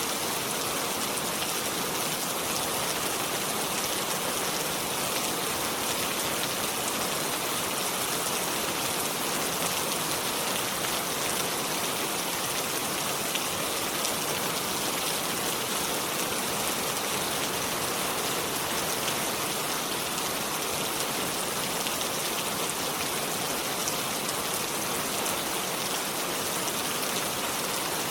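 Steady rain falling, an even hiss with the fine patter of many drops.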